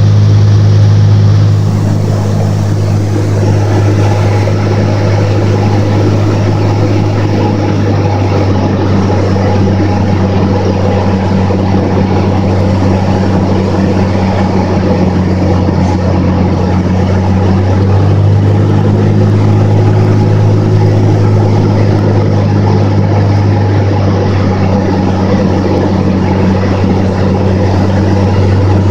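Cessna 206's piston engine and propeller running steadily, a constant low hum that grows a little louder about eighteen seconds in.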